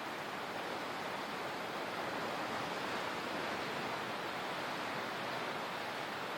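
Steady rushing water, an even hiss with no distinct splashes or breaking waves.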